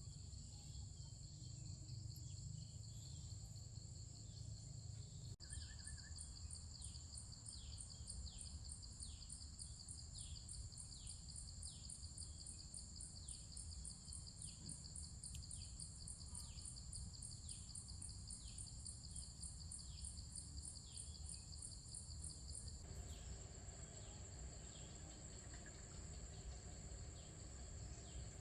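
Insects trilling steadily in two high, continuous tones, like crickets or cicadas, over a low rumble. From about five seconds in until near the end, a fast pulsing insect call joins them, with a short downward chirp repeating a little more than once a second.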